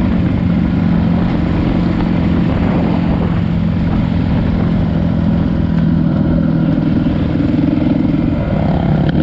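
Dirt bike engine running at a steady speed while riding, its note holding even and then easing off about a second before the end.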